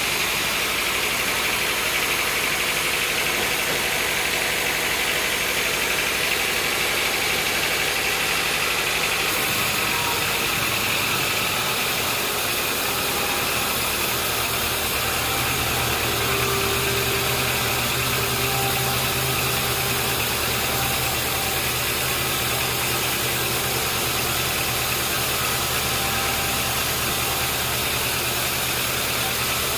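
Sawmill machinery running steadily with an engine-like hum. The sound changes about ten seconds in, and a lower steady hum sets in a few seconds later.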